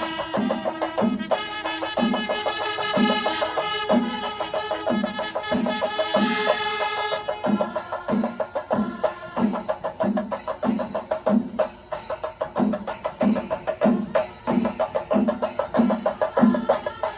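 Traditional Kerala festival percussion music: a steady drum beat, about one and a half strokes a second, under a pitched melody for the first seven seconds or so, then with busier, quicker strokes.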